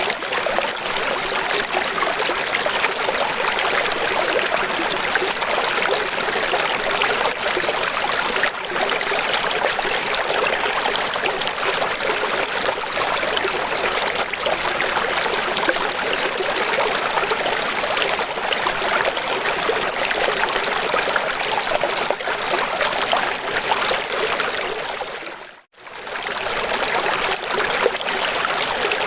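Steady rushing of flowing water, a stream or small waterfall, with no birds or other calls standing out. About 25 seconds in it fades out to near silence for a moment and comes straight back.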